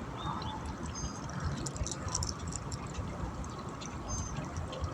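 River water trickling and lapping at the bank, a steady wash of sound, with a couple of short, high bird whistles about a second in and again near the end.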